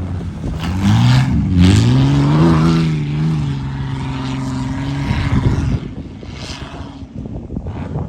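Truck engine revving hard: the pitch climbs over the first couple of seconds, holds high under load, then drops away suddenly about five and a half seconds in.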